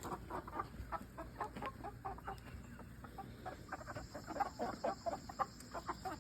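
Chickens clucking: a steady stream of short calls, several a second, from a group of birds.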